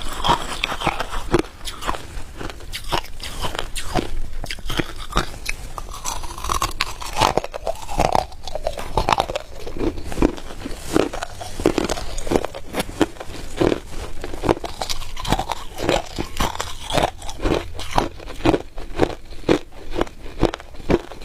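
Hard ice being bitten and chewed close to the microphone: a continuous run of sharp, brittle crunches that come faster and more evenly toward the end.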